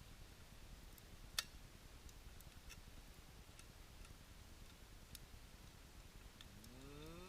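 Near-silent underwater ambience with a few scattered sharp clicks, the loudest about a second and a half in. Near the end, a low tone with overtones starts and rises in pitch.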